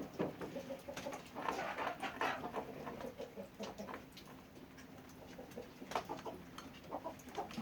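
Farmyard birds calling at irregular intervals, with scattered sharp clicks and knocks.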